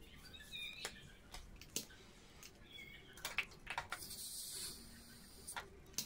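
Faint bird chirps, a few short calls, mixed with scattered light clicks and a brief hiss about four seconds in.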